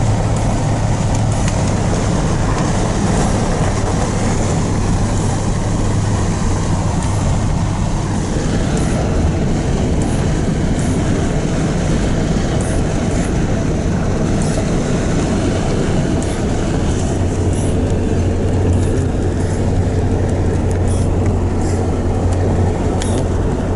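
Truck running down the road, heard from inside the cab: a steady low engine hum under continuous road rumble, with scattered light ticks.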